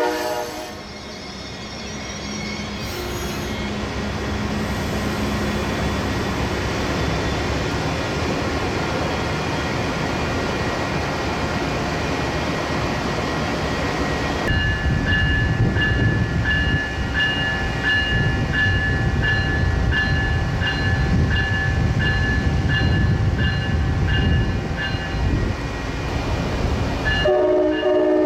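A train passing close by. Its multi-note air horn fades out just after the start, the wheels and engines rumble on, and about halfway the rumble grows heavier with a regular ringing about once a second. The horn sounds again near the end.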